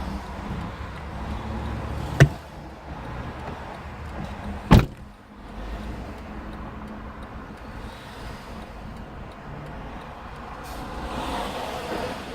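Low steady vehicle rumble with two sharp loud thumps, about two and a half seconds apart.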